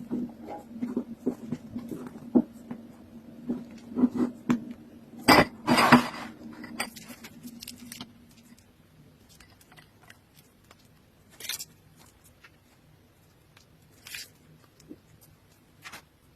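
Kitchen handling sounds: dishes and utensils knocking and clattering over a steady low hum, with the loudest knocks about five to six seconds in. The hum fades about eight seconds in, leaving a few scattered clicks.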